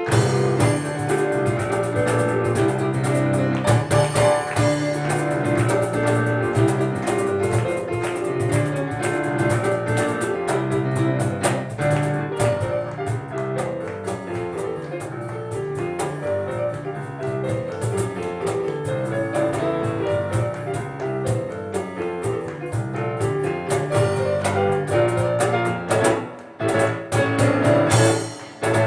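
Live instrumental music on piano and cajón: fast, busy piano lines over cajón strikes, with two brief breaks near the end.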